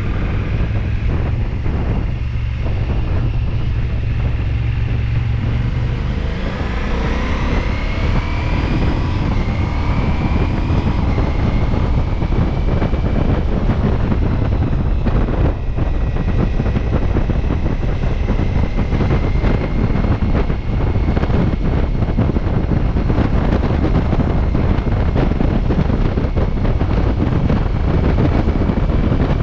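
Ducati Multistrada V4S's V4 engine running on the move, under heavy wind noise on the microphone. About six seconds in, the engine pitch climbs as the bike accelerates.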